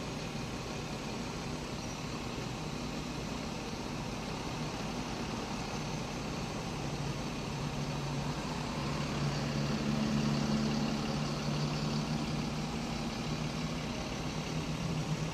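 Car engine idling while stopped in traffic, heard from inside the cabin: a steady low hum that swells a little about halfway through.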